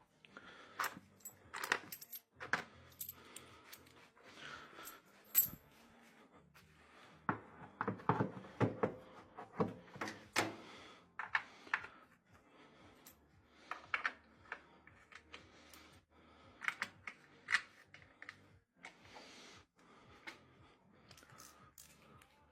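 Irregular clicks and metallic clinks of tools and small washing-machine parts being handled and set down during assembly.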